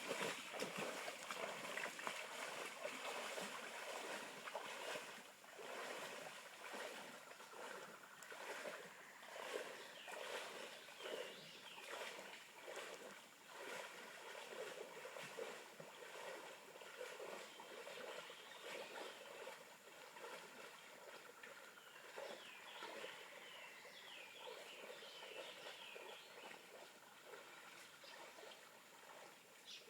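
Water splashing as people wade across a shallow river, over the sound of the running stream. Chirping calls come in now and then, more of them in the second half.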